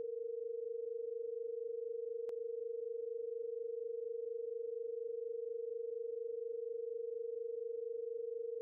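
Two steady electronic sine tones a minor second apart, Bb at 460.8 Hz and B at about 485 Hz in the Harmonics of Nature tuning, sounding together with a rapid even beating. A faint click comes about two seconds in.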